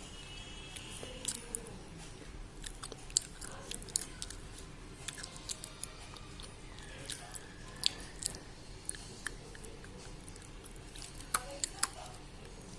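Thick white slate pencils being bitten and chewed: irregular sharp crunches and snaps, several coming in quick clusters, with a few louder ones near the end.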